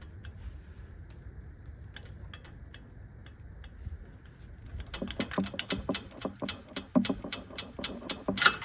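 Metal clicking and rattling as a part seated in the engine bay is worked loose by hand and pulled out. There are a few scattered clicks at first, then a quick run of knocks and rattles from about five seconds in, with the loudest clack near the end.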